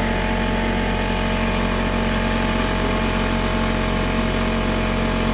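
Air compressor motor running steadily, a constant loud hum.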